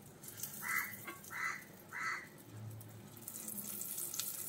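Hot cooking oil sizzling as eggplant slices are dropped in one by one: three short bursts of sizzling, then a steady sizzle from about three seconds in.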